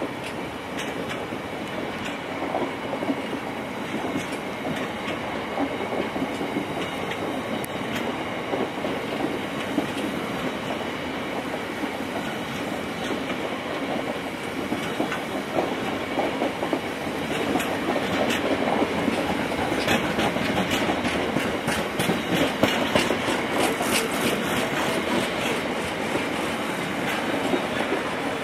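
Freight train rolling past, its wagon wheels clattering steadily over the rail joints. The clicks come thicker and sharper through the second half.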